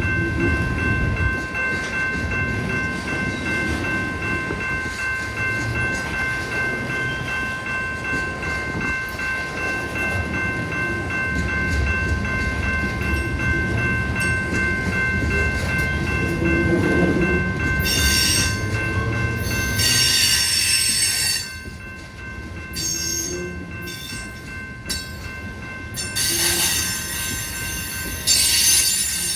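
A train rolling past with a low rumble and steady high-pitched wheel squeal. The rumble drops away about two-thirds of the way through, leaving the squeal and a few short, harsh screeches.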